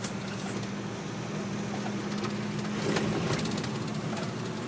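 Steady engine drone and road noise inside the cab of a moving U-Haul rental truck, with a few light rattles and clicks.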